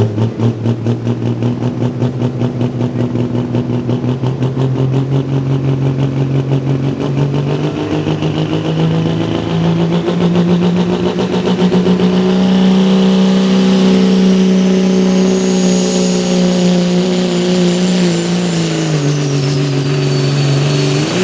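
Turbocharged 6.7 Cummins diesel in a GMC K2500 pulling truck, wound up under load on a sled pull. The engine note climbs from a fast pulsing beat to a high steady pitch, with a high turbo whistle rising and holding from about halfway. Near the end the revs and the whistle drop away.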